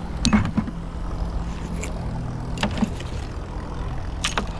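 Steady low hum of a running engine, with a few sharp clicks and knocks scattered through it.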